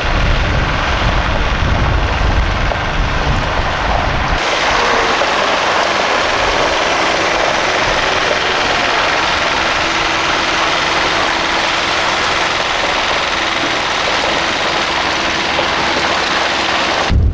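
A heavy vehicle engine running steadily. The sound changes abruptly about four seconds in, from a deep rumble to a steadier hum with a held tone.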